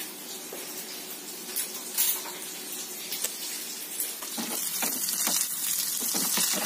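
Dried salted fish sizzling as it fries in hot oil in a pan, the hiss growing louder about four seconds in.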